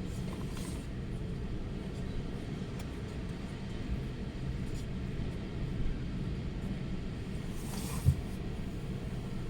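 Strong storm wind buffeting the microphone in a steady low rumble, with a brief gusty hiss and a single thump about eight seconds in.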